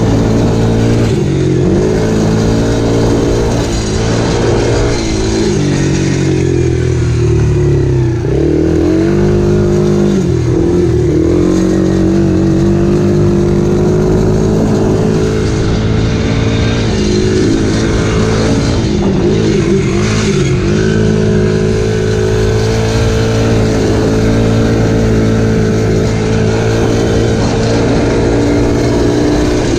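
Dirt bike engine running under load while riding, its pitch dropping and climbing again several times as the throttle is eased off and reopened, then holding a steady pitch through the second half.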